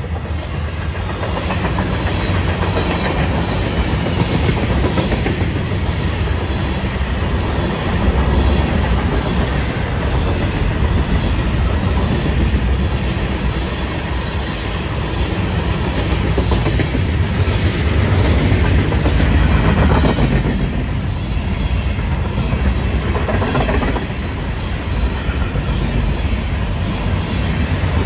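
Florida East Coast Railway mixed freight train rolling past: empty intermodal flatcars, then tank cars and covered hoppers, their steel wheels rumbling and clacking on the rails in a steady run, with a few sharper clunks about two-thirds of the way through.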